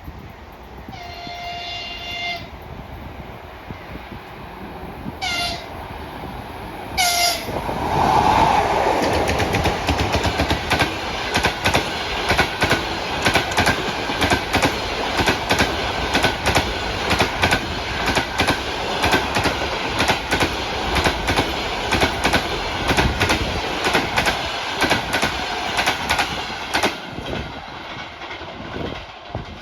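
EP20 electric locomotive sounding its horn, one longer blast then two short ones, then passing at speed at the head of a passenger train. The wheels click over the rail joints in a fast, even rhythm that fades near the end.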